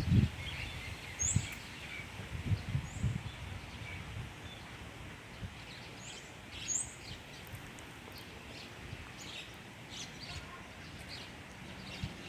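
Small birds chirping in short, high calls scattered throughout, over low wind rumble on the microphone that is strongest in the first few seconds.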